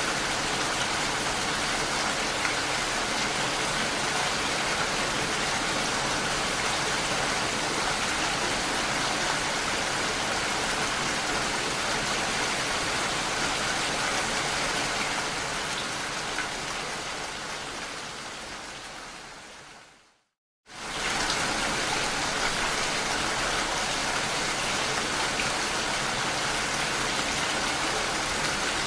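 Steady rain falling, fading out over a few seconds to a moment of silence about twenty seconds in, then starting again suddenly at full strength.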